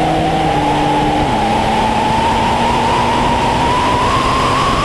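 Diesel pickup truck running hard down the drag strip: loud, steady engine noise with a whine rising slowly in pitch, and a lower tone that drops once about a second in.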